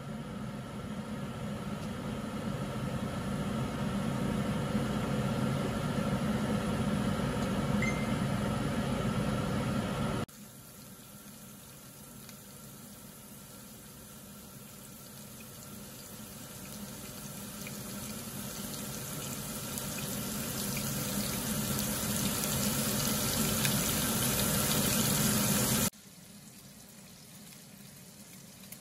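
Diced bacon frying in oil in a pan: a steady sizzle that grows louder over about fifteen seconds, after a stretch of steady hiss from the pan of heating oil. After a sudden cut near the end, the quieter bubbling of a pot of pasta water at the boil.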